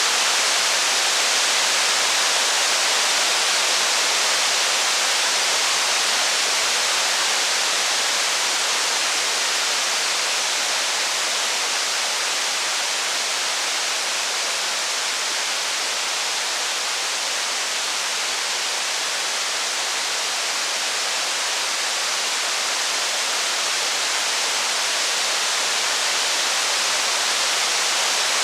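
Steady heavy rain: an even, unbroken hiss with no separate drops, crackles or thunder standing out.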